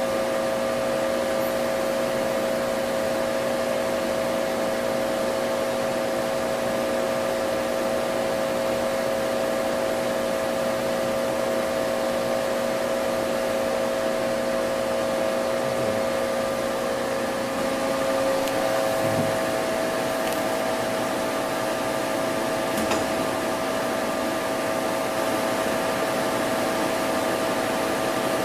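Hankook VTC-85R CNC vertical turning center running: a steady machine whine of several held tones over a hiss, its pitch shifting slightly about two-thirds of the way through, with a few faint ticks near the end.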